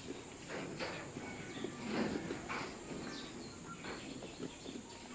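Goats bleating faintly and off and on, with a few short rustling sounds between the calls.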